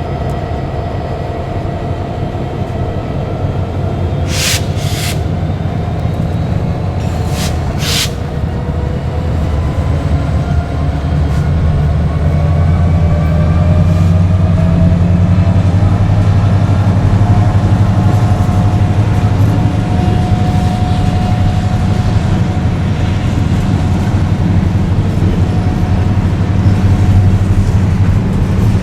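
GP20C-ECO diesel locomotive's Caterpillar 3512C V12 engine running, growing louder about a third of the way in and staying loud, with a faint whine rising slowly in pitch. Three sharp metallic clanks come early in the first third.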